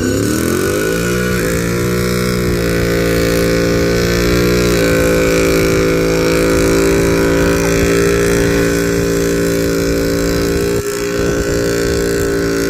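Car engine revved up and held at high, steady rpm during a burnout, climbing in small steps over the first few seconds, then holding, with a brief dip near the end.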